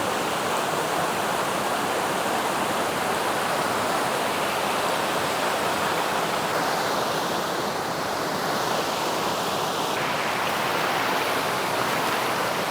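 Creek water rushing steadily, an even, unbroken rush.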